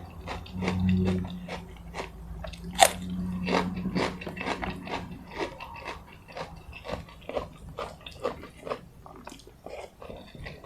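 Close-miked chewing and crunching of food, a quick run of sharp crunches and wet mouth clicks, with one loud crunch about three seconds in. A low steady hum sits under the first half.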